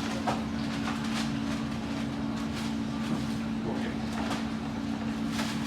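A steady low machine hum at two close pitches, over a noisy background with a few faint knocks.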